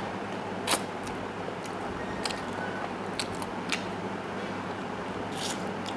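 Close-up eating sounds of chicken stew and soft rice being chewed: scattered short clicks and wet smacks, the sharpest about a second in, over a steady low hum.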